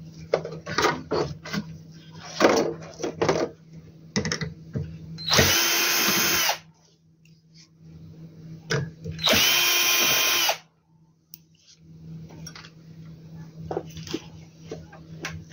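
Electric screwdriver running in two bursts of about a second each, backing out screws from the inverter's boards, with clicks and rattles of screws and parts being handled between the bursts.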